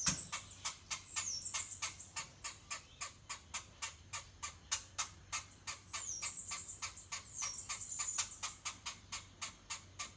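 An animal calling: a steady run of sharp clicks, about four to five a second, with high whistles that fall in pitch every few seconds.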